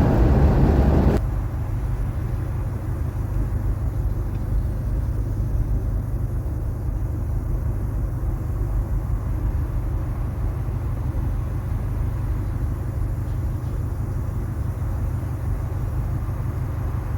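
Inside the cabin of a 1981 Cadillac Seville on the move: about a second of loud wind and road noise through the open window, then a sudden drop to a steady low rumble of the car running.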